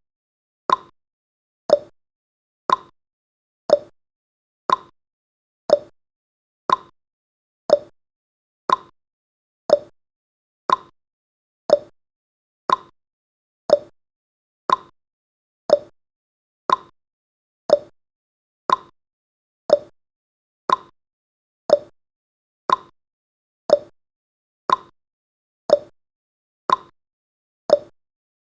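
Ticking clock sound effect of a countdown timer: one sharp tick each second, alternating between a higher and a lower tick like a tick-tock.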